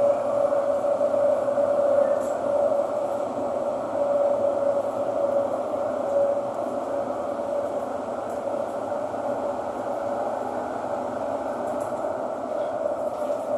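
Thomson–East Coast Line Kawasaki-CRRC T251 metro train running at speed between stations: a steady rumble with a steady whine in the middle of the range.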